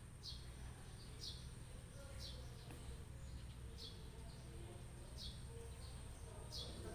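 A bird repeating a short, high, falling chirp about once a second, faint, over a thin steady high-pitched whine.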